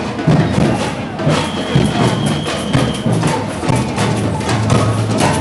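A procession's marching drum band playing a steady beat, with low drum thuds and many sharp stick clicks. A high tone is held for under two seconds about a second in.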